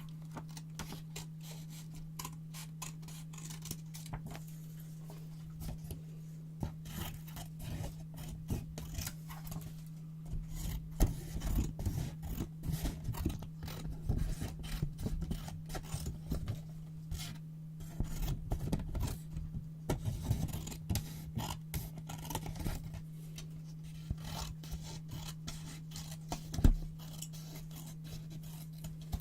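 Scissors snipping through paper in a run of short crisp cuts, with paper scraping and rubbing between them. The cutting is busiest and loudest through the middle, with one sharp snap near the end, over a steady low hum.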